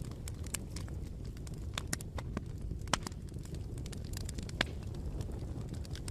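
Bonfire crackling: irregular sharp pops and snaps over a low steady rumble, with a louder pop about three seconds in and another a little before five seconds.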